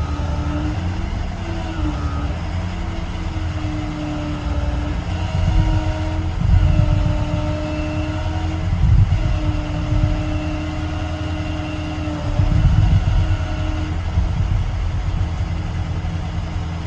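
International TerraStar's MaxxForce diesel engine running steadily, with a sustained whine that wavers slightly in pitch over a low rumble. The low rumble swells louder a few times.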